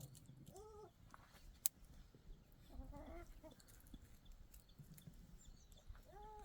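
Chickens clucking faintly: short arched calls about half a second in, a cluster around three seconds, and another near the end, with one sharp click in between.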